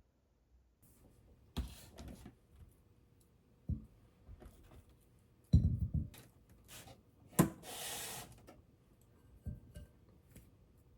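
Kitchen handling sounds during food preparation: a string of separate knocks, taps and rustles, the loudest knocks about halfway, and a brief hissing rustle about three-quarters of the way through.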